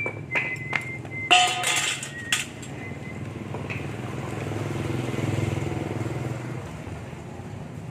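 Metal parts clinking and knocking several times, some with a brief ring, during pump disassembly in the first two and a half seconds. This is followed by a low engine drone that swells about halfway through and then fades.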